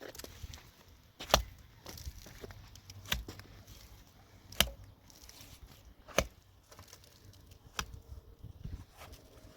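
Rhythmic striking: five sharp, evenly spaced blows about a second and a half apart, with a few fainter knocks between them.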